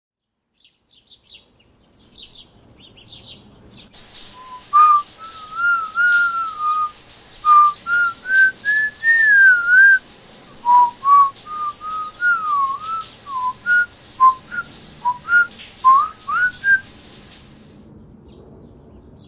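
A person whistling a wandering tune of held and gliding notes over a steady hiss, starting a few seconds in and stopping shortly before the end.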